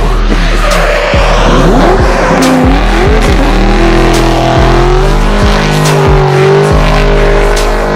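Drift cars' engines running hard, with tyres squealing and skidding, mixed with music that has a steady beat.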